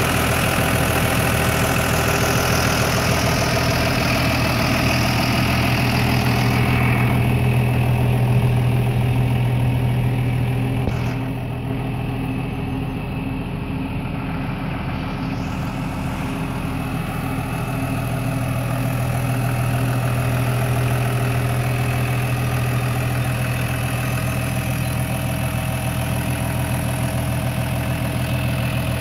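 John Deere 6603 tractor's diesel engine idling steadily, its level dipping slightly for a few seconds partway through.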